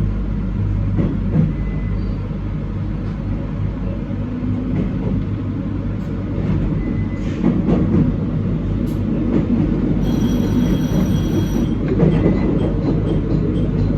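Train running on the rails, heard from inside at the front: a steady low rumble and hum with scattered clicks from the wheels on the track. About ten seconds in, a high ringing tone sounds for under two seconds.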